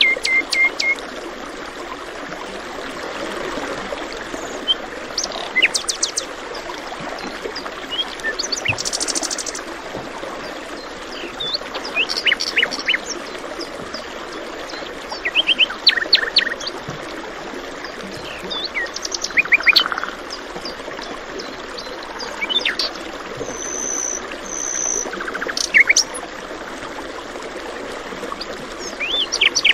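Birds chirping and trilling in short, scattered calls over the steady rush of a stream.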